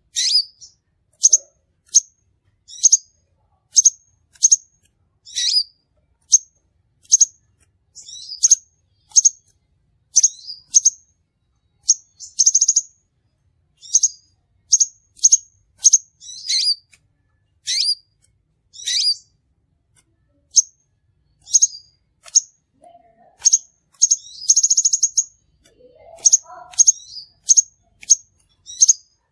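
Crimson sunbird calling: a steady series of short, high, sharp chirps, about one or two a second, some sweeping downward, with a brief rapid trill twice, once near the middle and once later on.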